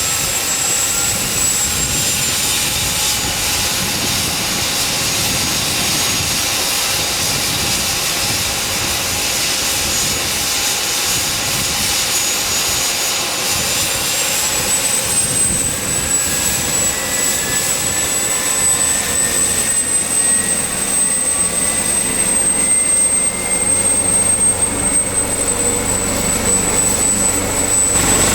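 Leonardo AW139's twin Pratt & Whitney PT6C-67C turboshaft engines running on the ground during startup, a steady high turbine whine. About halfway through the whine steps up in pitch and a lower tone starts climbing slowly as the engines spool up.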